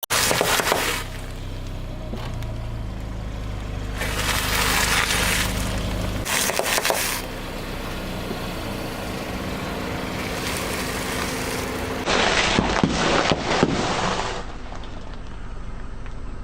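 Car tyre rolling over and crushing crunchy objects: bursts of crunching and cracking, with a run of sharp cracks near the end, over the car's low engine hum.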